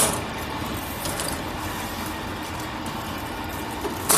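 Copper-aluminium radiator separator machine running with a steady mechanical rattle, with a sharp knock at the start and another near the end.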